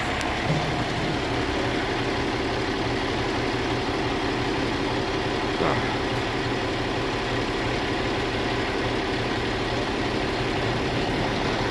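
Heavy truck engine idling steadily, with one short knock a little past halfway.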